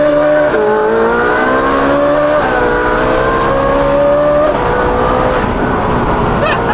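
Ferrari 458's naturally aspirated V8, on a titanium valved exhaust with free-flow front pipes, accelerating hard: the pitch climbs and drops sharply at quick upshifts about half a second, two and a half and four and a half seconds in, then eases down gently. Heard from inside the cabin.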